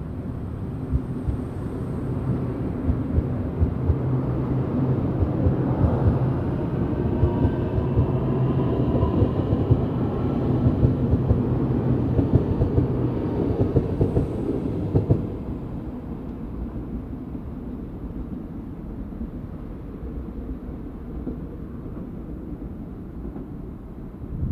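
Train passing close by through a station, its wheels clacking rapidly over the rails with a steady low hum and a whine that shifts in pitch. Loudest for about the first fifteen seconds, then it drops to a quieter rumble.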